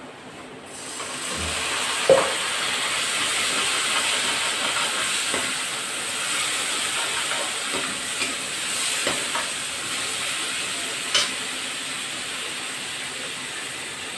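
Onion and spice masala sizzling in hot oil in a metal kadhai, the sizzle starting about a second in and slowly fading toward the end. A metal spatula knocks against the pan now and then, sharply about two seconds in and again near the end.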